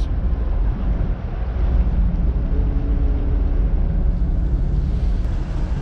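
Steady low rumble of a passing container ship and its escorting tugboats, with a faint engine drone that comes in about a second and a half in and fades near the end. Wind buffets the microphone.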